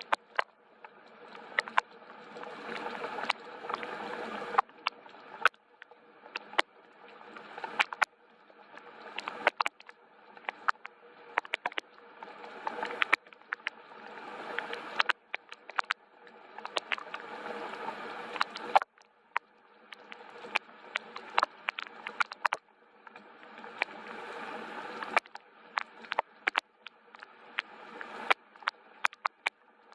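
Soft rain falling, its hiss swelling and easing every two to three seconds, with many sharp drops tapping close by.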